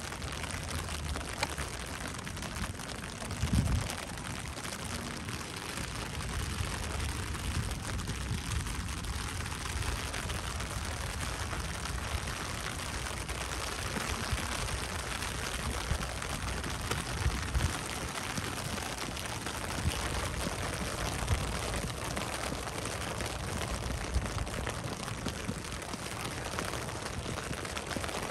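Steady rain falling, an even hiss, over an uneven low rumble, with one brief thump about three and a half seconds in.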